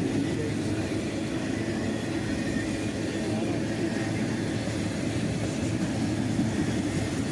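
Steady rolling rumble of a long Norfolk Southern freight train's cars passing close by.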